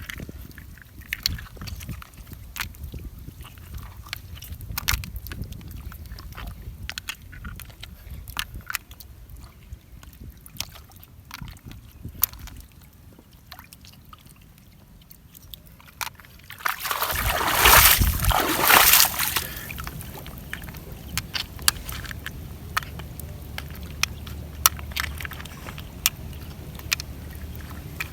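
Small clicks and knocks, with a loud rush of sloshing water lasting a couple of seconds about seventeen seconds in.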